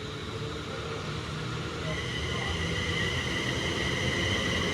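Class 350 Desiro electric multiple unit pulling away, its low rumble building as it accelerates. About two seconds in, a high two-tone traction motor whine comes in and grows louder.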